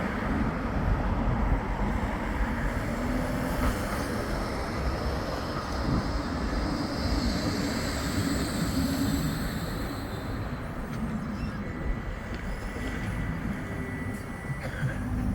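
Bombardier Flexity 2 light-rail tram running on the tramway: a steady rumble that goes on throughout, with a faint thin high tone joining in the last few seconds.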